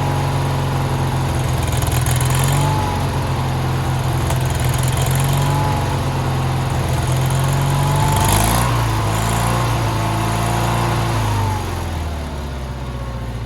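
Sears garden tractor engine running steadily at low throttle, its speed dropping about two-thirds of the way through and slowing further near the end.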